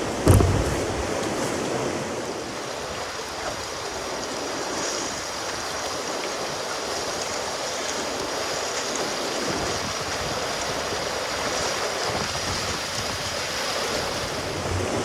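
Steady rush of water running over shallow, rocky river rapids, with a brief thump just after the start.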